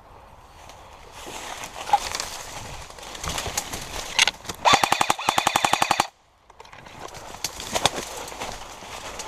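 Airsoft rifle firing a full-auto burst of about a second and a half: a rapid, even rattle of roughly fourteen shots a second that cuts off suddenly. A few single cracks come before and after it.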